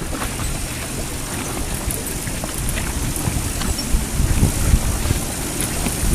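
Storm wind buffeting the microphone on an anchored sailboat: a steady rush of wind and water with low rumbling gusts, a few stronger past the middle, and scattered small clicks.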